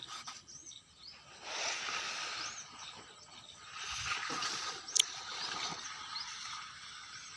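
Small birds chirping repeatedly, with two spells of hissing noise and a single sharp click about five seconds in.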